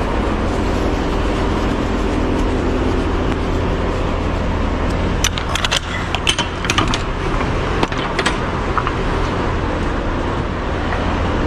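Semi-truck's diesel engine running steadily with a low rumble, with a cluster of light clinks and rattles about five to eight seconds in.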